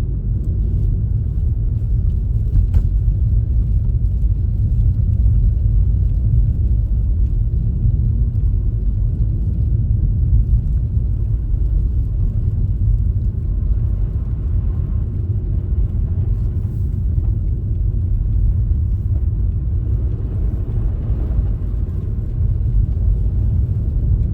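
Steady low rumble of a car being driven: engine and tyre noise heard inside the moving car.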